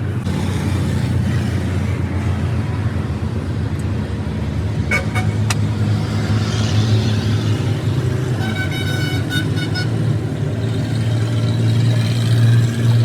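A vehicle engine running steadily with a low hum. A few sharp clicks come about five seconds in, and a horn sounds once for about a second and a half just past the middle.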